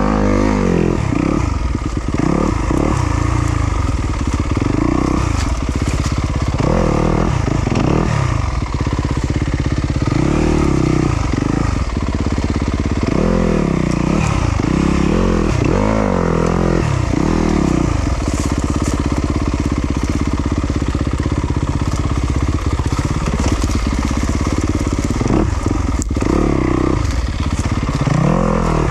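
2020 Yamaha YZ250FX's 250cc four-stroke single-cylinder engine being ridden hard, its revs rising and falling again and again as the throttle is opened and closed.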